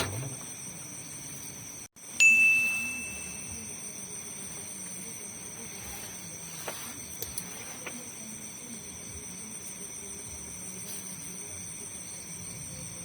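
A single bell-like ding about two seconds in, right after a brief dropout in the sound, ringing at one clear pitch and fading over about a second. Under it runs a steady high-pitched chirring of night insects.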